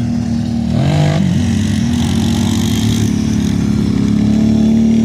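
Vehicle engine running hard under acceleration. Its pitch climbs, dips briefly about a second in, then holds high and steady.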